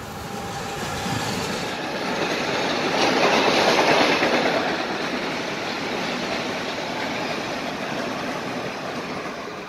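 Metro-North electric multiple-unit commuter train passing close by, its wheels clattering over the rails. The sound builds, is loudest about three to four seconds in, then eases off near the end.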